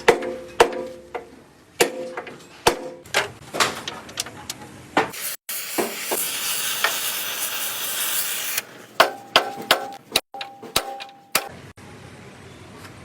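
Metal being struck: irregular sharp knocks and taps, some ringing briefly. A steady hiss runs for about three seconds in the middle.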